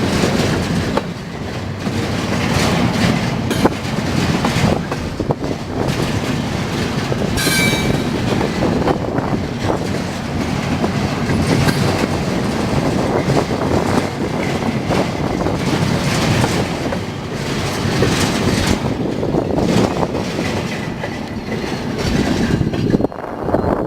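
A train rolling past at close range, its wheels clattering steadily over the rail joints. There is a brief high-pitched wheel squeal about seven seconds in.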